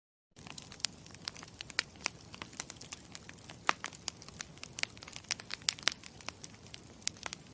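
Campfire crackling: irregular sharp pops and snaps over a low hiss. It starts suddenly about a third of a second in, after dead silence.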